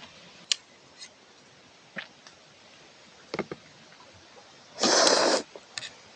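Table eating sounds: a few light clicks of utensils against a bowl, then a short, loud slurp of cold ramen noodles a little under five seconds in.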